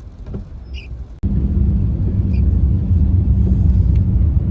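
Low, steady rumble of a moving vehicle heard from inside, growing much louder after an abrupt cut about a second in.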